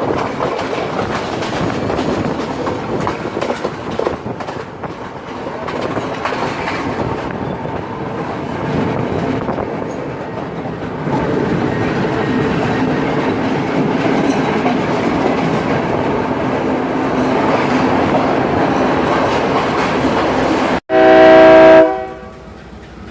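Express train running on the rails, with clattering wheel noise and a faint held tone in the middle stretch. Near the end, after a brief break, a loud train horn blast lasts about a second.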